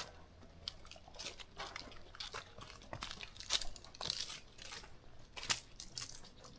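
Footsteps crunching on a dirt and leaf-strewn trail, a little under two steps a second, some crunches sharper than others.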